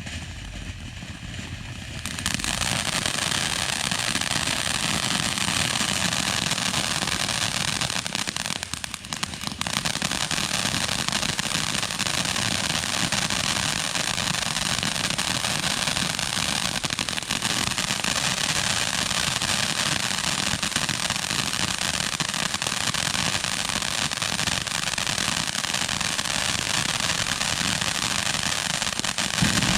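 500 gram crackle fountain firework spraying with a soft hiss, then about two seconds in breaking into dense, continuous crackling that keeps going steadily, with a brief lull near 9 seconds.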